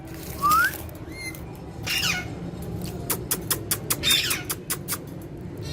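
Green ringneck parakeet giving short squawking calls, one a quick rising chirp near the start, with a rapid run of sharp clicks about three seconds in.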